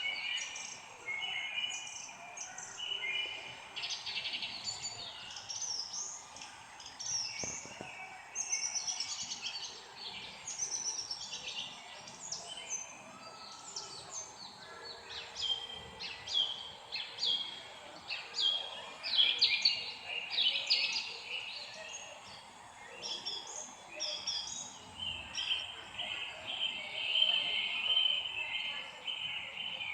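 Several songbirds chirping and singing together, with many quick overlapping notes and short downward-sliding calls.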